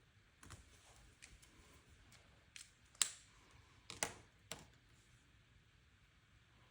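Planner supplies being handled on a desk: a handful of short, sharp clicks and taps from pens, pen caps, paper and sticker sheets. The loudest is about three seconds in, with two more close together around four seconds in.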